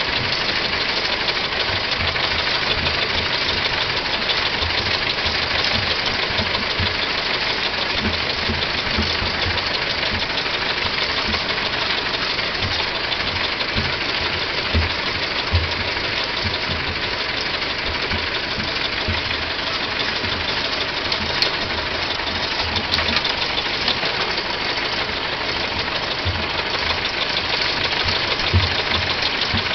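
1909 Ford Model T's four-cylinder engine running steadily, with uneven low thumps from its firing.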